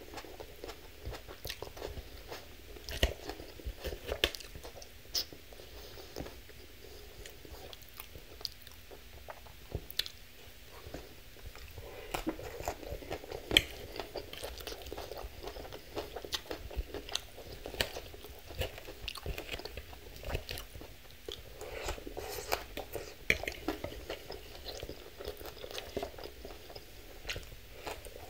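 Close-up chewing and crunching of a leafy mixed-green salad with cherry tomatoes, with many irregular sharp crackles from the bites.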